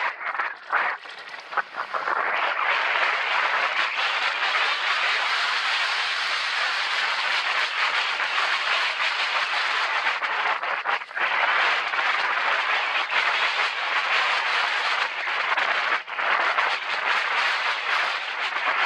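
Steady rush of wind and tyre noise from a mountain bike descending a loose dirt trail, with the rattle of the bike over rough ground. The noise dips briefly a second or two in, and again near eleven and sixteen seconds.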